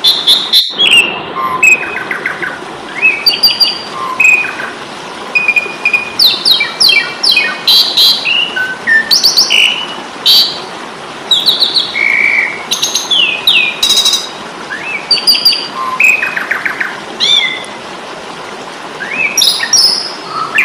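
Asian pied starling (jalak suren) singing its fighting call: a quick, varied run of short chirps and whistles over a steady hiss, with a brief cut under a second in.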